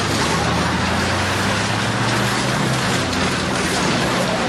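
Four-cylinder engine of a cut-down K-car running steadily as the car drives, a constant low hum under a broad rushing noise.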